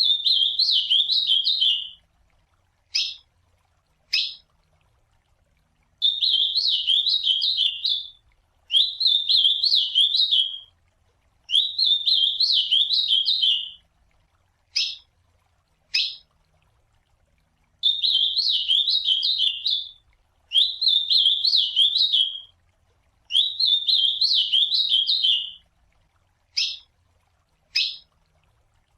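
Ultramarine grosbeak (azulão) singing: about seven rapid warbling phrases of roughly two seconds each, with short single call notes in the pauses between them.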